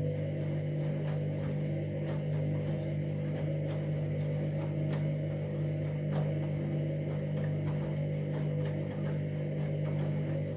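Candy washing machine running with a steady, even hum and faint ticking, which cuts off abruptly at the end.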